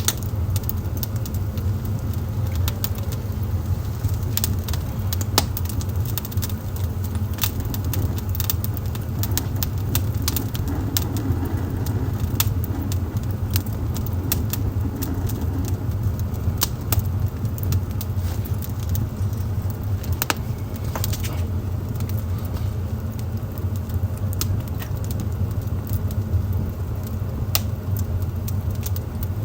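Wood fire burning in a fireplace: frequent irregular sharp crackles and pops over a steady low rumble.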